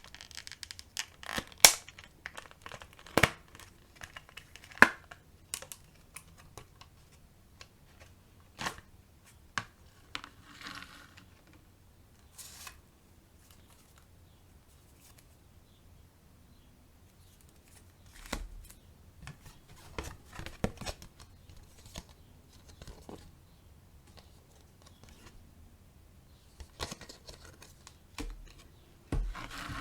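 Packaging being handled and opened: tearing and crinkling with many sharp clicks and taps, and a quiet stretch about halfway through.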